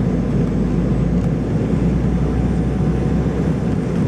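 Steady low rumble of an Embraer 190 airliner heard from inside the cabin in flight on approach, a mix of engine and airflow noise that holds an even level.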